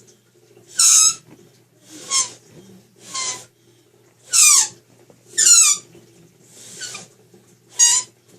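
Homemade paper-and-paper-clip noise maker blown through a crack between two fingers, giving a series of short, shrill squeals that drop in pitch, about one a second, with fainter breathy blows between.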